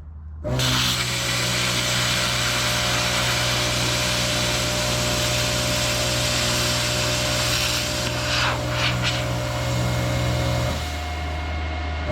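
Hobart 110-volt plasma cutter with a built-in air compressor cutting sheet metal: a steady electrical hum under a loud hiss from the arc and air, starting about half a second in. Near the end the hum drops lower for a moment.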